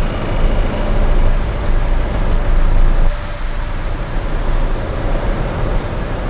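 Citroen C4 Grand Picasso's 1.6 HDi diesel engine running steadily under light load, with a deep low-pitched drone. The owner takes this drone, at about 28 Hz or once per crankshaft revolution near 1700 rpm, for an abnormal noise that Citroen calls normal.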